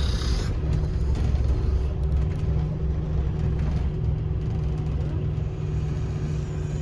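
Scania N230UD double-decker bus's five-cylinder diesel engine and drivetrain running under the cabin floor: a steady low rumble with a faint constant whine, which grows a little stronger about two seconds in. A brief high-pitched squeal fades away in the first half-second.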